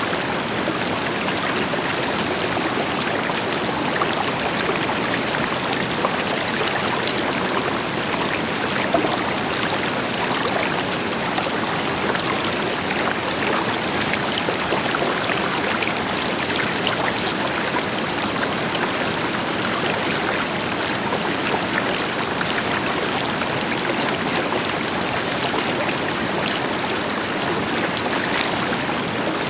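River water flowing steadily over rocks, a continuous rushing with fine splashing and gurgling, backed by the deeper steady rush of a distant waterfall.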